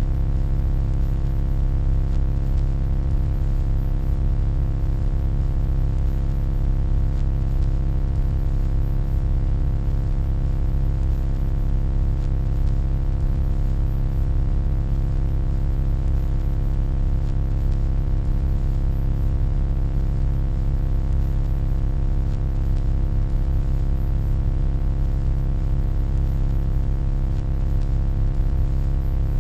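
Steady low electronic hum: a deep drone with many fixed overtones above it and a faint hiss, unchanging throughout.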